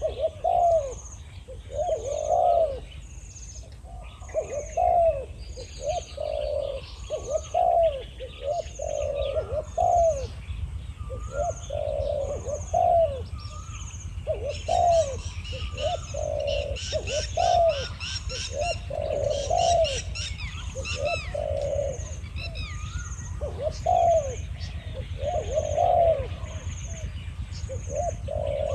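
Spotted doves cooing in a long run of low, repeated coos, a decoy bird and a wild bird calling against each other. A high pip repeats steadily throughout, and small birds chirp busily about halfway through.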